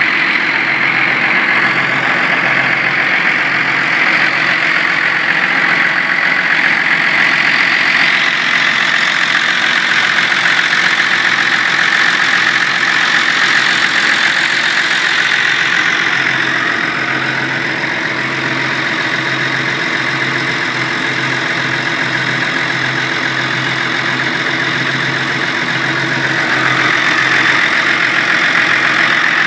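Massey Ferguson 6290 tractor's diesel engine running steadily. It eases a little about halfway through and picks up again near the end.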